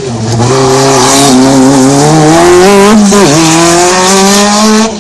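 Rally car engine accelerating hard away from a hairpin at full throttle, its pitch climbing steadily, dipping briefly about three seconds in at a gear change, then holding at high revs.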